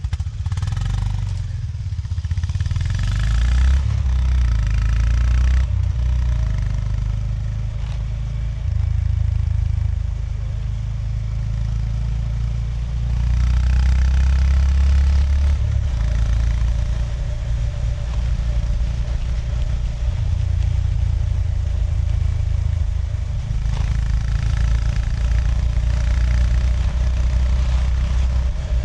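Honda GB350S's 348 cc air-cooled single-cylinder engine running under way, its low exhaust note rising and falling in steps with throttle and gear. At three points it is joined by a rush of higher hiss for a few seconds at a time.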